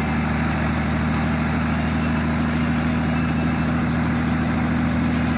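Helicopter running with a steady, even drone and a fast pulsing beat.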